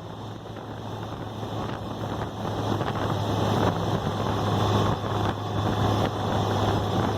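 Wind rushing over the microphone and road noise from a moving Polaris Slingshot open-cockpit three-wheeler, with a steady low hum underneath; it grows louder over the first few seconds, then holds steady.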